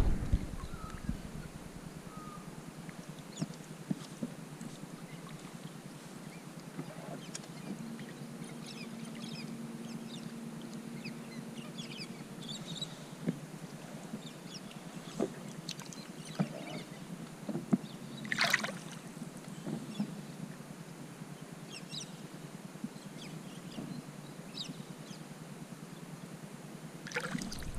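Water lapping against a small fishing boat's hull, with scattered light knocks and one sharper knock about 18 seconds in. A faint low hum runs for a few seconds from about 8 seconds in.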